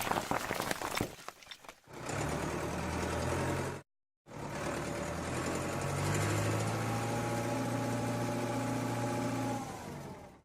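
A small motor running with a steady hum, cutting out briefly about four seconds in, then running again and winding down near the end.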